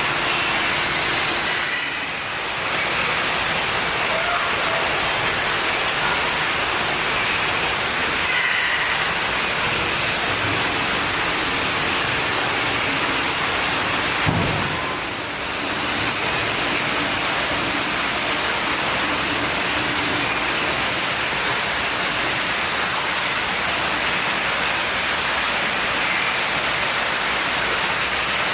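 Steady rushing of falling water, like an indoor waterfall, with a few faint short high calls above it.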